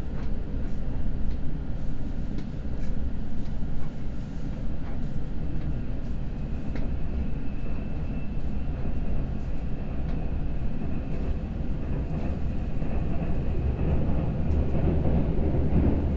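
Seibu Red Arrow limited express train running on the line, heard inside the passenger cabin: a steady rumble of wheels and running gear on the rails, with a faint high whine in the middle and the rumble growing louder near the end.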